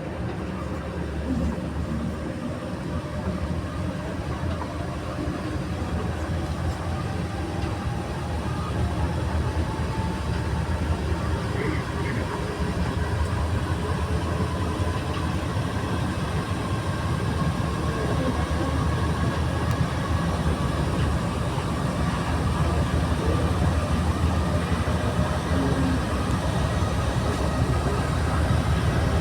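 Inside a rubber-tyred NS-93 metro train running between stations: a steady rumble of the ride, growing slowly louder, with a faint motor whine that rises gradually in pitch as the train gathers speed.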